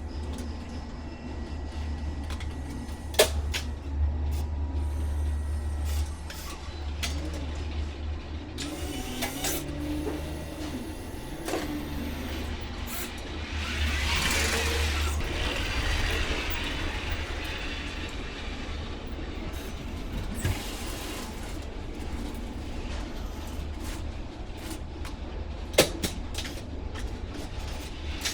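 A steady low engine rumble with intermittent scraping and clatter of handling, and two sharp knocks, one about three seconds in and one near the end.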